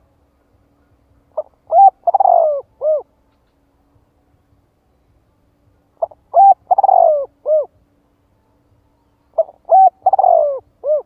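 Spotted dove cooing three times, about four seconds apart. Each phrase is a short run of coos with a longer falling note near the end and a brief closing coo.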